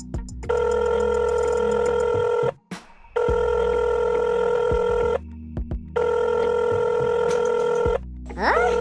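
Telephone ringing: a steady electronic ring about two seconds long, repeated three times with short pauses, over background music.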